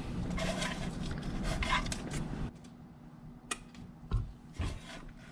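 Hand-handling noise of small parts while the O-ring on an oil filter cap is being changed: a couple of seconds of rustling, then a few light clicks and taps.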